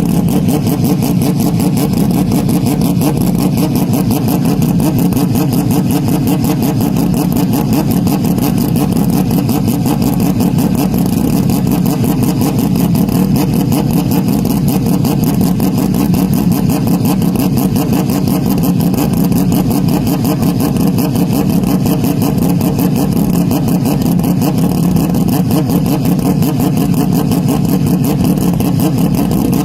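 Car engine running at a steady, unchanging speed, with no revving up or down. Loud and distorted, with a dense, rapidly pulsing drone.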